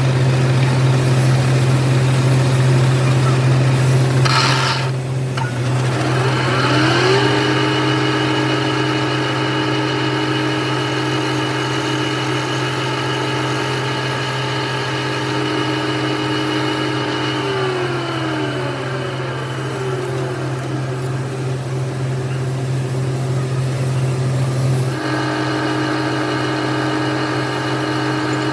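Workshop machine motors running with a steady low hum. A second motor whine rises in pitch about seven seconds in, holds steady, and winds down around eighteen seconds, like a machine spindle spun up and stopped. A brief hiss comes about four seconds in.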